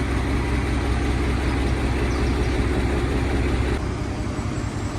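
Heavy engine idling steadily with a low drone. About four seconds in the deep part of the drone drops away abruptly, leaving a lighter, slightly quieter running sound.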